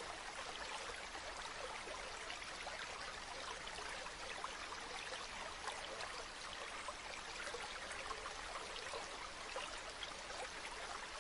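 A shallow stream babbling steadily over stones, an even rush of flowing water.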